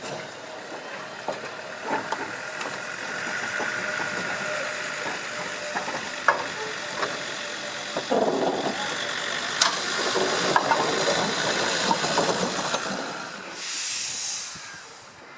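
Steam locomotive Avonside 1764 shunting: a steady hiss of steam with scattered knocks and clanks, and a louder burst of high steam hiss near the end.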